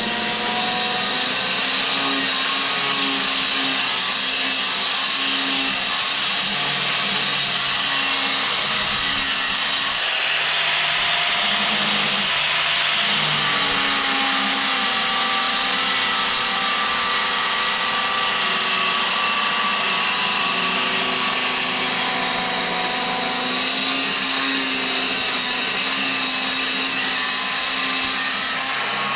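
A power tool running continuously at a steady level, with a slightly wavering motor pitch as it works under load.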